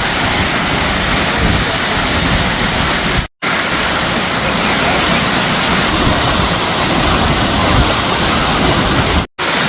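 Waterfall: a loud, steady rush of falling water close to the microphone, dropping out to silence for a split second twice, about a third of the way in and near the end.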